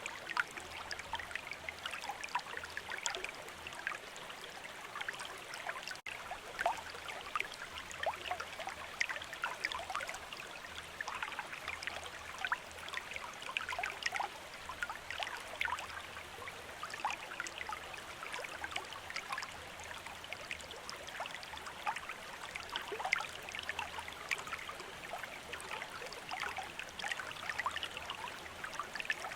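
A running stream of water, a steady rush dotted with many small, quick splashes and gurgles.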